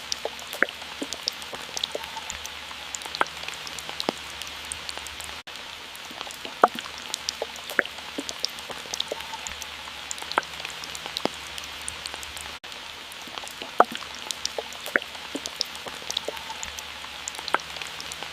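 Water drops falling and dripping irregularly, several sharp plinks a second, over a steady hiss of falling water.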